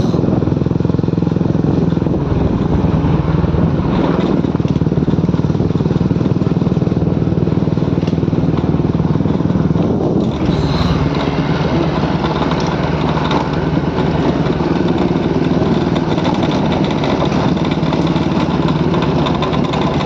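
Motorcycle engine running steadily while being ridden, a continuous even drone.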